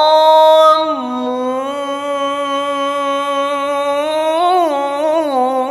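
Quran recitation: the reciter holds one long melodic note on a stretched vowel. The pitch steps down slightly about a second in, holds steady, then turns through a wavering ornament around four to five seconds in before dipping again near the end.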